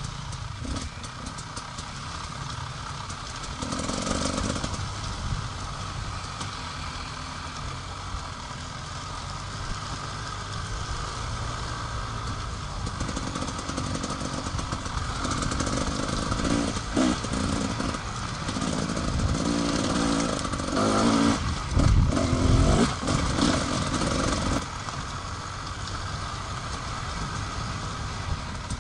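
Enduro motorcycle engine running while riding off-road, the note rising and falling with the throttle, with louder stretches of hard throttle and clatter about two-thirds of the way through.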